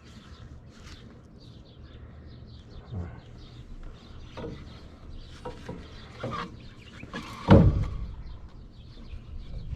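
Scattered knocks and clinks of parts being fitted back onto an air-conditioning package unit, with one loud thud about seven and a half seconds in.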